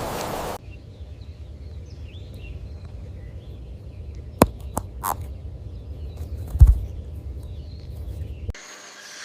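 Outdoor ambience: a low rumble with faint bird chirps, a few sharp clicks near the middle and a louder low thump a little later. A steady hiss cuts off abruptly in the first second.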